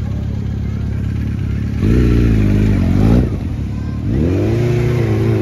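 Police motorcycle engine running at a low steady speed, then revved about two seconds in, its pitch rising and falling, and revved again about four seconds in as the bike climbs a wooden ramp obstacle.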